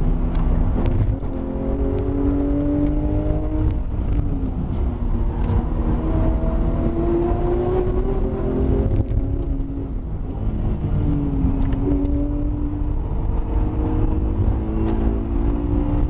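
Porsche 911 GT3 RS flat-six engine heard from inside the cabin at speed, its revs climbing under throttle and dropping back about four times through the corners, over steady road and drivetrain noise.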